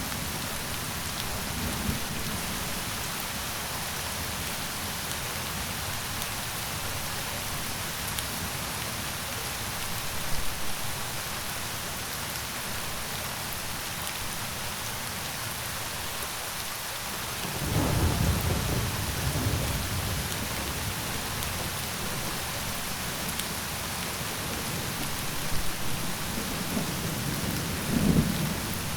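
Steady heavy rain with rolls of thunder. A low rumble builds a little over halfway through, and another comes near the end.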